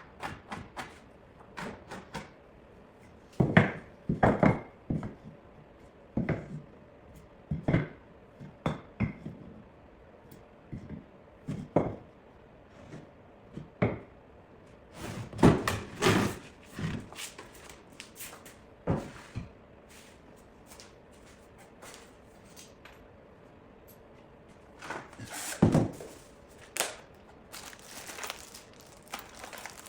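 Irregular knocks and thuds of wooden boards and plywood being handled and set down, in clusters with gaps between.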